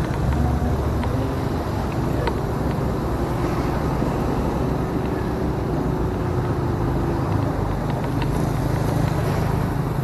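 Motorcycle under way, its engine running steadily at an even speed, with road and traffic noise around it.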